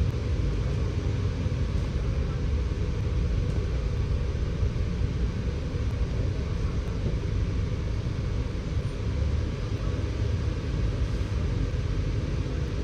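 Scania K94UB bus running, a steady low rumble of engine and road noise with no distinct events.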